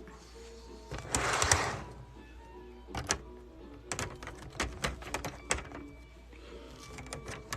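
Model railroad cars being handled and set on the track: a short rustle about a second in, then scattered light clicks and taps. Quiet background music plays underneath.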